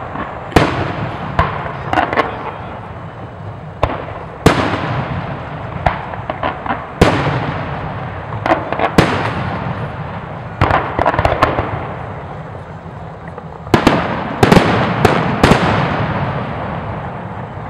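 Aerial firework shells bursting overhead in a long series of sharp bangs, each followed by a fading echo, with quick clusters of smaller pops between them. The densest volley comes near the end.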